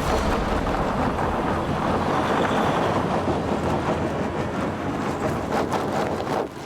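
Heavy truck on a snowbound highway giving a steady loud rumbling rush of noise, engine and tyres together.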